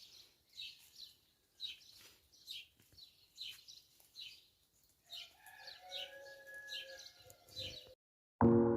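A bird chirping the same short, high, falling note over and over, slightly more than once a second. From about five seconds in, a lower, drawn-out call from another animal sounds beneath it for about three seconds. Near the end the sound cuts out and piano music starts.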